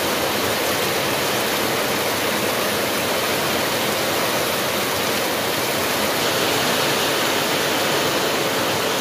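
Heavy rain falling steadily, with water pouring off a roof edge.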